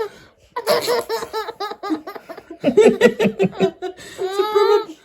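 A baby laughing in three bouts of rapid giggles, the last one a drawn-out high squeal.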